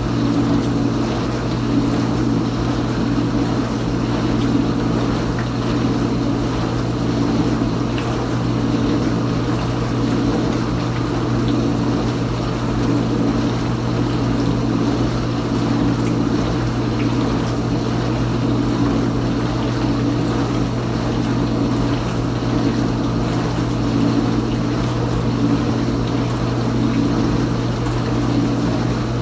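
Kenmore Ultra Wash 3 dishwasher's pump motor running steadily mid-cycle, a constant hum with water spraying inside the tub, the tone swelling slightly every few seconds.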